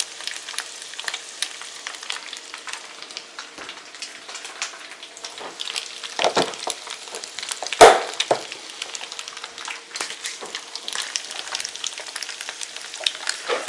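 Pasta, sausage and egg frying in a pan, sizzling with many small crackles while being stirred. There are two sharp, louder knocks about six and eight seconds in; the second is the loudest.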